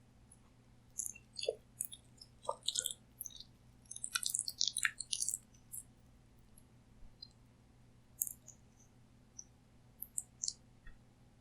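Close-miked chewing of food: short, sharp mouth clicks, thick for the first half and then sparse, over a faint steady hum.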